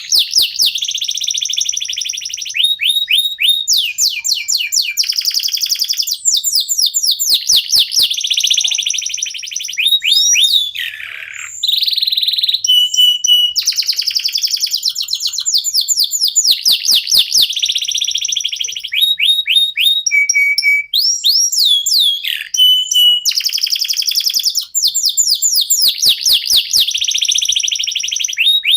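Domestic canaries singing: long, loud runs of fast repeated down-sweeping notes and rolling trills, high-pitched, broken by brief pauses between phrases.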